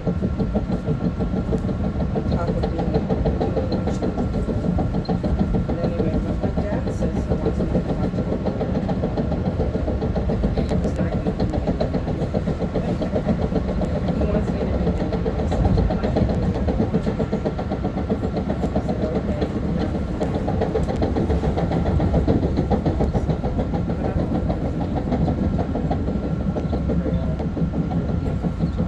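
Long Island Rail Road M3 electric multiple-unit train running between stations, heard inside the car: a steady rumble of wheels and running gear with a steady high whine through it.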